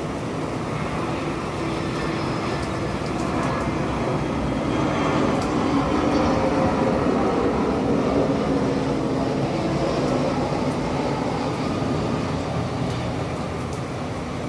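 Steady rain with scattered drips, under a low rumble that swells to its loudest about halfway through and then fades.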